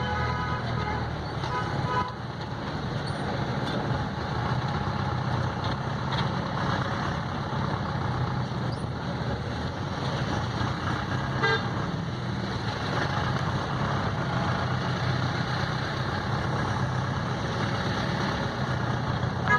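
Road traffic on a busy street, with vehicle engines running steadily. Short horn toots come in the first couple of seconds and once about halfway through.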